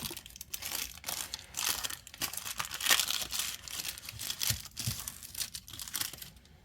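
Plastic packaging from a Miniverse blind ball crinkling and tearing as it is handled and opened by hand, in irregular crackles that die down near the end.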